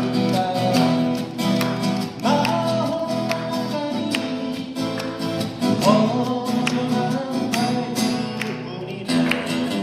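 Acoustic guitar music, strummed steadily, with a melody line over it.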